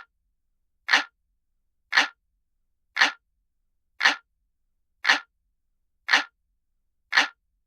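A clock ticking, one sharp tick about every second with silence between each.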